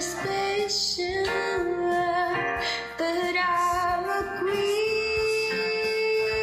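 A woman singing a song in a foreign language over musical backing, moving between short notes and then holding one long steady note from about three-quarters of the way through.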